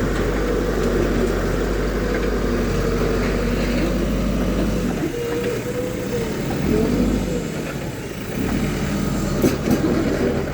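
JCB 3DX backhoe loader's diesel engine running steadily, then rising and falling in pitch for a few seconds about halfway through as it works under load, with a couple of sharp clanks near the end.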